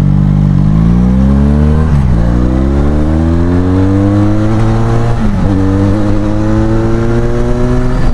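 Benelli Leoncino 500 parallel-twin with an aftermarket exhaust, accelerating hard through the gears. The engine note climbs and drops at each upshift, about half a second, two seconds and five seconds in, then climbs steadily again.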